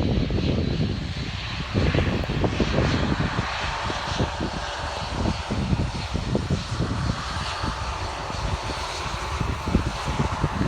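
Boeing 787-8 airliner's jet engines running on arrival: a steady jet noise with a faint high whine, and a second steady tone joining near the end. Under it is a low rumble that comes and goes, like wind on the microphone.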